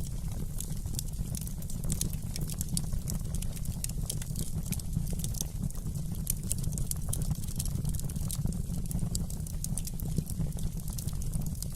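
Wood fire in a fireplace crackling, with many sharp irregular pops over a steady low rumble of the flames.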